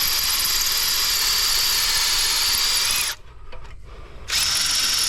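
Cordless drill with a masonry bit drilling into brick, its motor whining steadily under load. It stops about three seconds in, then runs again briefly near the end.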